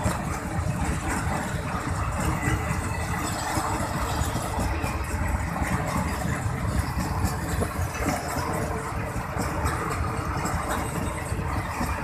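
Empty flat wagons of a Pakistan Railways freight train rolling past close by: a steady rumble of steel wheels on the rails.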